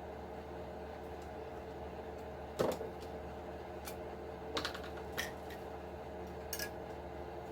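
A few light clicks and knocks of small RC truck parts being handled during disassembly, the loudest about two and a half seconds in, over a steady hum.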